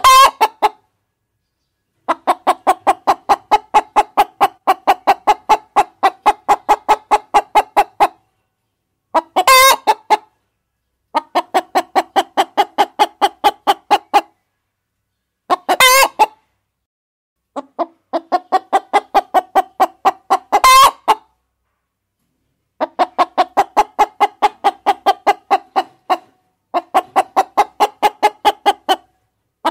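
Hens clucking in steady runs of about four clucks a second, each run lasting a few seconds with sudden silences between, broken four times by a short, loud, shrill hen call.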